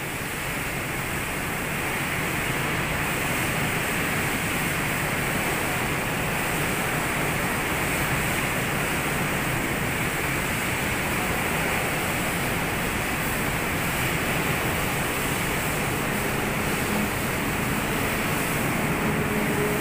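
A loud, steady rushing noise with no breaks or knocks.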